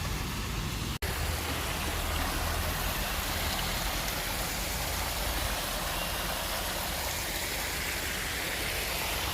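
Steady rush of stream water flowing under a small footbridge, with a low rumble beneath it. It drops out for an instant about a second in.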